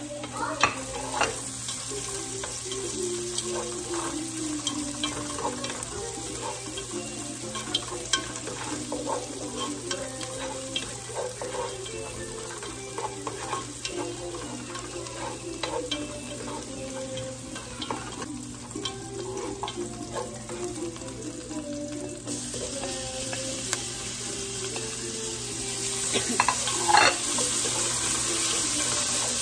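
Chopped onion and garlic sizzling in oil in a pot, stirred with a wooden spoon that clicks and scrapes against the pot. Near the end the sizzle grows louder as cherry tomatoes go into the pan.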